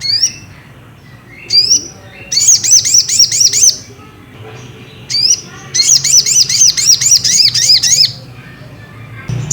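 Crimson sunbird (sogok ontong) singing: twice, a sharp rising note followed by a fast trill of high arched chirps, about six a second, lasting one to two seconds.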